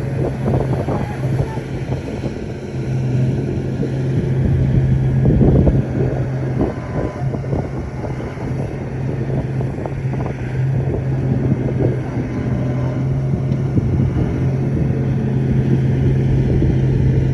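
Heavy earthmoving machine's diesel engine running steadily, with irregular knocks and clanks over it.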